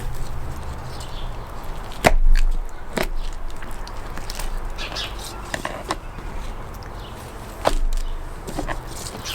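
Knife cutting the head off a trout: a few sharp chopping knocks and crunches, the loudest about two seconds in and another near the end, with lighter clicks and scraping between.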